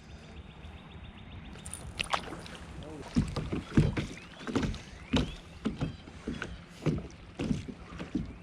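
Kayak paddle strokes in the water, a repeated splash roughly every half second to a second, starting about two seconds in.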